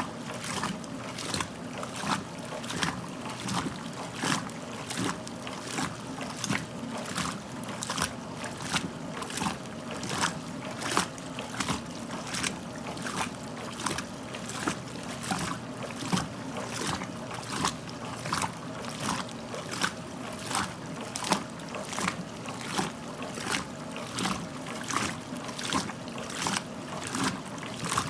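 1969 Westinghouse front-loading washing machine mid-cycle: the drum turning with a steady motor hum as the wet clothes and water slosh and splash in a regular rhythm, about three splashes every two seconds.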